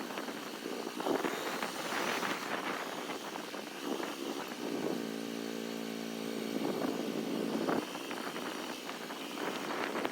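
Motorcycle on the move, most likely the Kawasaki 250TR's single-cylinder engine, running under a steady rush of wind and road noise. Between about five and eight seconds in, the engine note holds a steady pitch.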